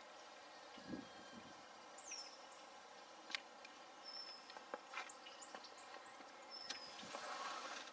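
Faint outdoor ambience with distant wild birds giving a few short, high whistled notes, some sliding down in pitch. Scattered sharp clicks come in the middle, and a short swell of hiss near the end.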